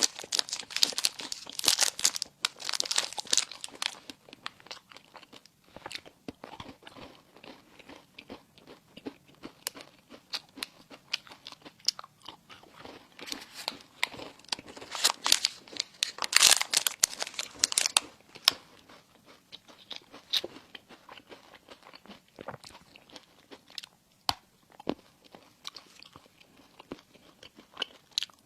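Close-miked eating: crunchy bites into crisp bread and chewing, with loud crunching in the first few seconds and again a little past halfway, and lighter chewing clicks in between.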